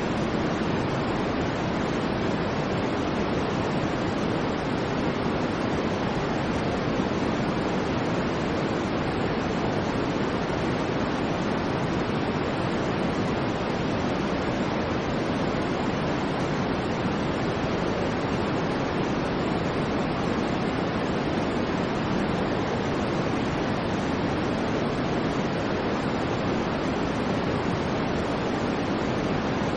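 Steady, unchanging white noise: a constant hiss weighted toward the lower middle, with no swells, breaks or changes.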